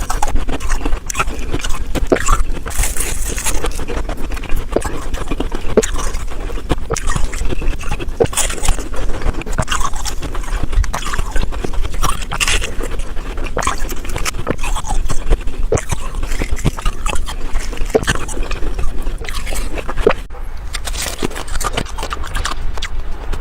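Ice frozen in a bottle being bitten and chewed, sped up four times: a rapid, dense run of crunches and cracks.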